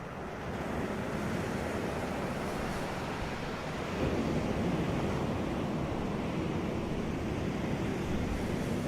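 Sea waves breaking and washing up a beach, a continuous surf with a low rumble, swelling louder about half a second in and again about four seconds in.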